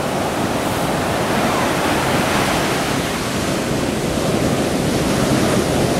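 Rough ocean surf, big storm-driven waves from Hurricane Bill breaking with a steady, unbroken rush.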